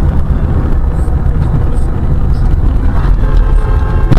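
Loud, steady low rumble of a vehicle on the move, as a dashcam picks it up. A faint steady tone comes in about three seconds in.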